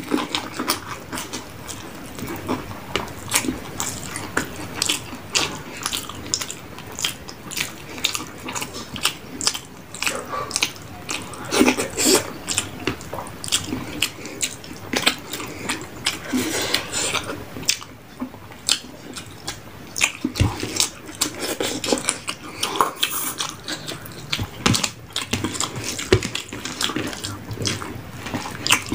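A person eating: chewing and biting, with many irregular sharp crunches and wet mouth sounds.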